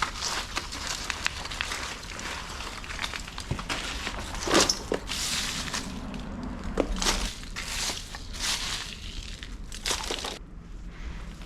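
Carpet and carpet padding being rolled up around tack strips: irregular rustling, scraping and crinkling, with a few sharper knocks, the loudest a little over four seconds in.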